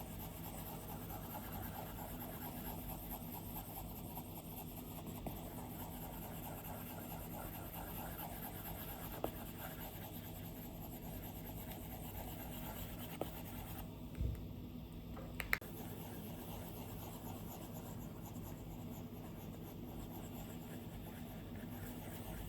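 Stylus strokes on an iPad screen: faint continuous scratchy drawing sounds, broken by a few sharp taps of the stylus tip in the second half.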